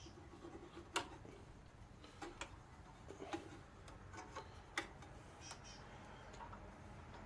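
Light, irregular metallic clicks and taps of pliers and a spring being worked on a lawnmower engine's governor linkage, the sharpest about a second in and near five seconds in.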